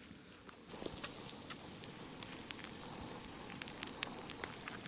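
Chopped meat and corn tortillas sizzling faintly on a round steel griddle, an even frying hiss with scattered sharp crackling pops that sets in under a second in.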